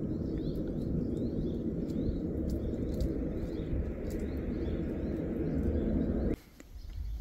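Small birds chirping repeatedly over a steady low rushing noise. The rushing stops abruptly near the end.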